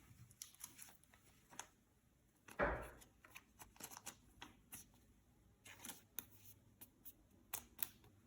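Yu-Gi-Oh trading cards and foil booster packs being handled: scattered soft clicks and card taps, with one louder crinkling rustle about two and a half seconds in.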